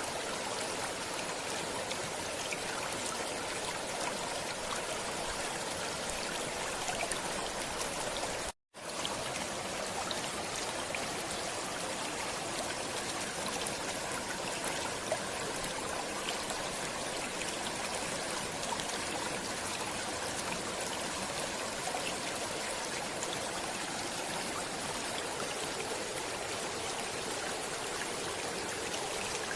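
Stream water flowing and trickling steadily, with a momentary cut to silence about eight and a half seconds in.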